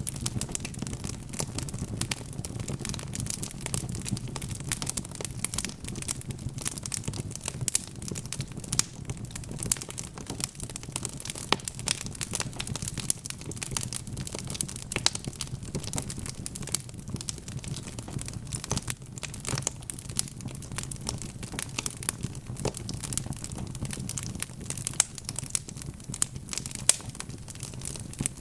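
Log fire crackling in a fireplace: dense, irregular sharp pops and snaps of burning wood over a low steady rumble.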